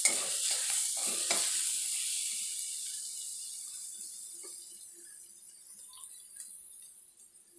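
Curry leaves and green chilli-ginger-garlic paste sizzling in hot oil in a nonstick kadai, stirred with a spatula, with a few scraping strokes in the first second or so. The sizzle is loudest at the start and dies down.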